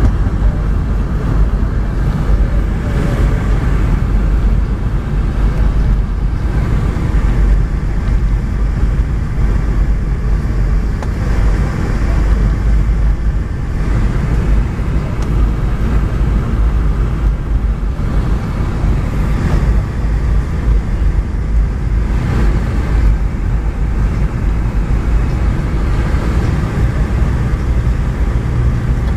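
Steady low rumble inside the cabin of a Boeing 717-200, the noise of its rear-mounted Rolls-Royce BR715 jet engines and the air rushing past the fuselage.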